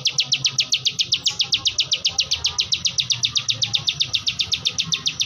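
Ciwah (ciblek sawah) singing a fast, unbroken trill of short, even, high-pitched notes, about ten a second.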